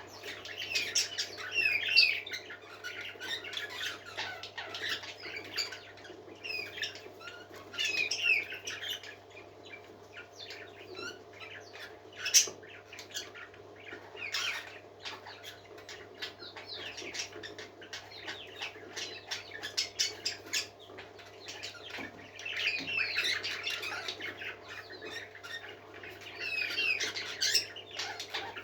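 Pet parakeets chirping and warbling in bursts of fast, high chatter, with scattered sharp clicks and a steady low hum underneath.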